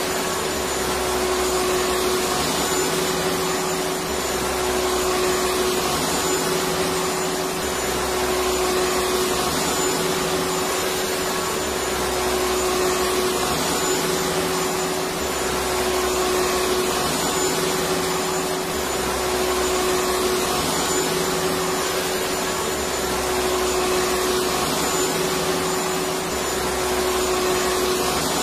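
Electric vacuum cleaner running steadily: a continuous airy hiss with a steady motor whine, and a low hum underneath that comes and goes every couple of seconds.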